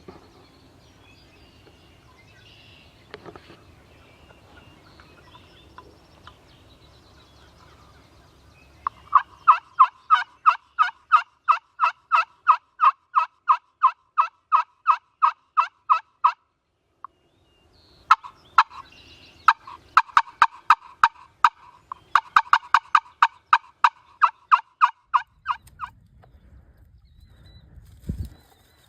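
Wild turkey calling: two long runs of rapid, evenly spaced notes, about four or five a second, with a short pause between them. A low thump comes near the end.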